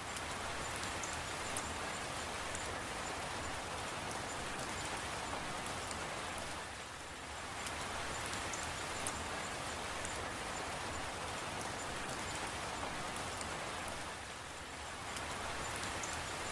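Steady rain falling: a dense even hiss with scattered faint drop ticks, easing briefly about every seven and a half seconds.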